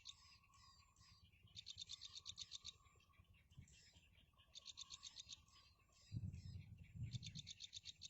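Faint bird calls: short, rapid high trills, each about a second long, repeat about every three seconds, with softer chirps between them. About six seconds in come two low rumbles, briefly the loudest sounds.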